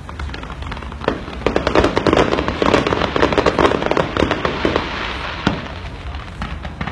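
Fireworks going off in a dense run of rapid crackling bangs, starting about a second in. The bangs thin out to a few separate pops near the end.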